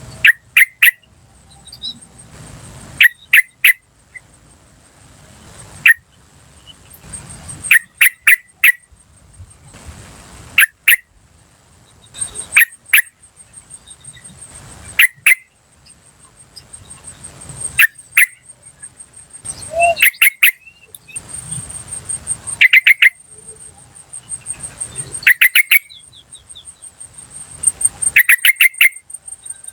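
Yellow-vented bulbul calling: short clusters of two to four sharp notes, repeated every couple of seconds. A steady, rapid, high-pitched insect trill runs underneath.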